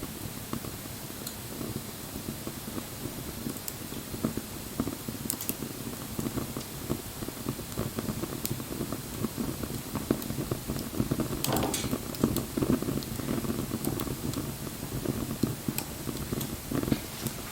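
Wood fire burning: continual small crackles and ticks over a steady low rush, with a few sharper pops, the loudest about twelve seconds in.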